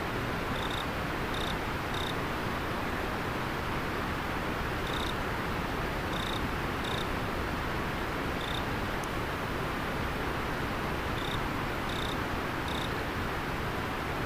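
River water flowing in a steady rush. Over it an insect chirps now and then in short high chirps, about ten in all, often two or three close together.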